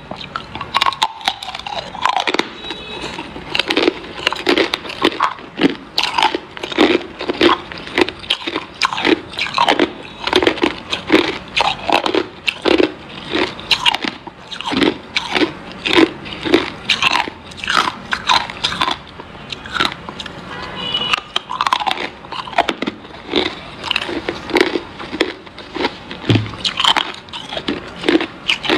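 Hard ice being bitten and chewed close to the microphone: a continuous run of loud, irregular crunches, several a second.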